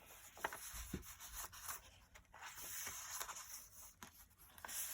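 Faint rustling and rubbing of paper as the pages and tags of a handmade paper journal are handled and turned, with a few light ticks.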